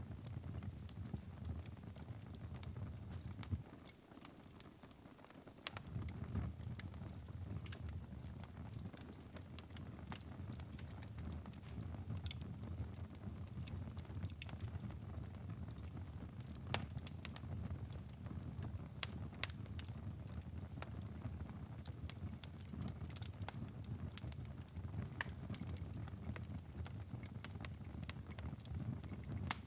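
Wood fire in a fireplace crackling: scattered sharp pops and snaps over a steady low rush of flame. The low rush drops away briefly about four seconds in, then returns.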